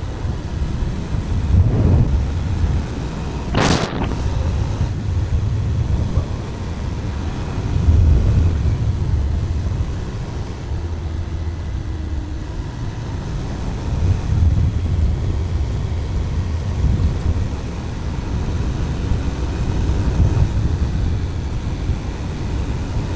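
Bajaj Pulsar 220 motorcycle riding at highway speed, heard through a helmet-mounted camera: a low, rumbling wind buffet over the engine that swells and eases every few seconds. A brief sharp noise cuts through about four seconds in.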